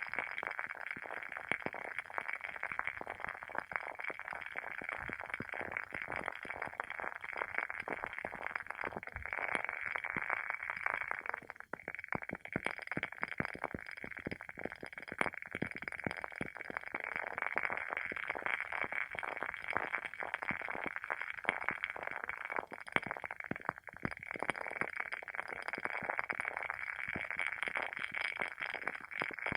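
WoodWick candle's wooden wick crackling as it burns: a dense, continuous patter of small irregular pops, like a tiny fireplace, with a short lull about 12 seconds in.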